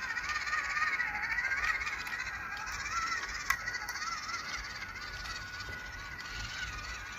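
Small RC crawler's electric motor and gearbox whining, the pitch rising and falling as the throttle varies, with faint clicks and one sharp click about halfway through.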